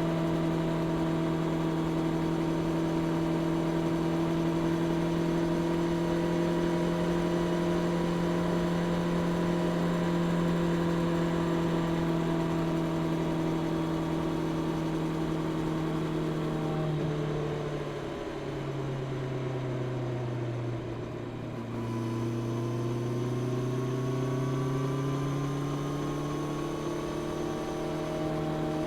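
Honda CB650R inline-four engine running through its stock exhaust, held at steady revs. About two-thirds of the way through the revs drop as the throttle eases, then climb steadily again as the bike pulls away.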